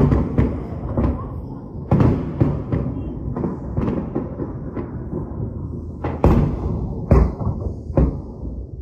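Aerial firework shells bursting one after another, sharp bangs over a constant low rumble of echoing blasts, the loudest about two, six and seven seconds in.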